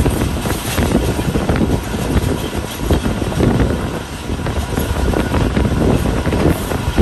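Passenger train running along the track, heard from on board: a steady, loud rumble and rattle of the carriages on the rails.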